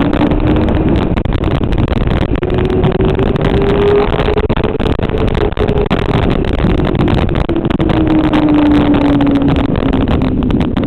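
Motorcycle engine at speed on a race track: its note climbs steadily for about five seconds under throttle, then falls slowly as it eases off. Heavy wind rush over the microphone runs under it.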